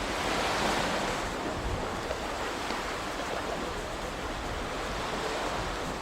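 Ocean waves washing onto the shore, a steady rushing surf that swells about a second in and eases back slowly.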